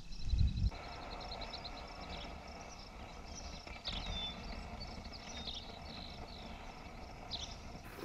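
Birds chirping and whistling in short downward-slurred calls, with a rapid trill near the start, over a steady outdoor hiss. A few low thumps in the first second come from the underwater camera on its pole being handled.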